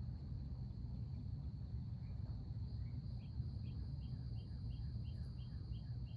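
A bird singing a run of short repeated notes, about three a second, starting about two seconds in, over a steady high insect drone and a low background rumble.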